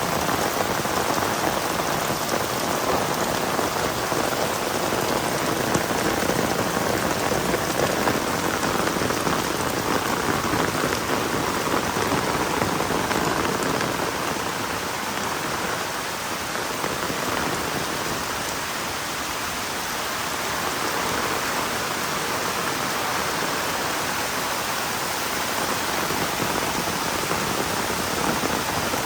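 Heavy rain falling steadily in a dense, even patter, easing a little about halfway through and then picking up again.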